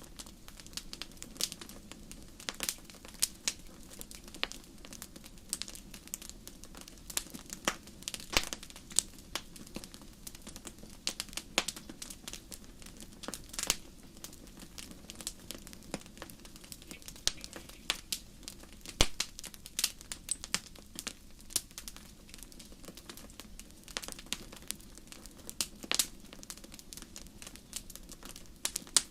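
Fire in a fireplace crackling: irregular sharp pops and snaps, sometimes several in quick succession, over a low steady rush of the flames.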